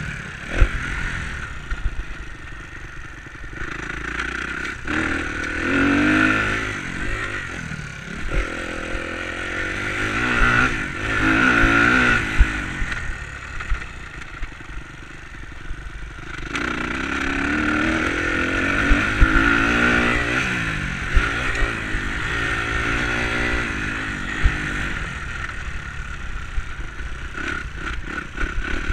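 Enduro motorcycle engine revving up and falling back again and again as it is ridden, with repeated sharp knocks and clatter.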